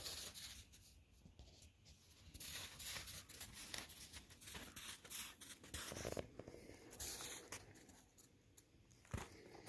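Faint rustling with many scattered light clicks and crackles, like dry wood debris being shifted or handled.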